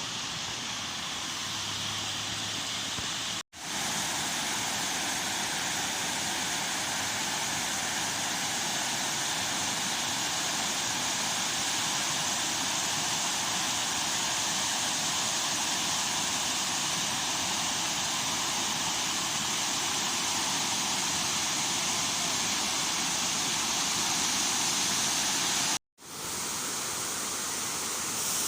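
Water falling steadily in a waterfall, an even rushing hiss. It cuts out for an instant twice, a few seconds in and near the end.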